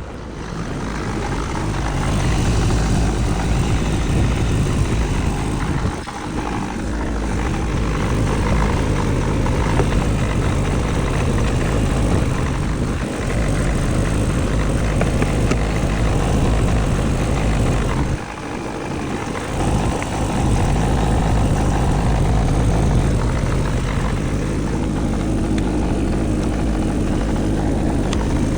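Car heater-blower fan running at high speed with a steady rush of air. It builds up over the first couple of seconds and dips briefly twice.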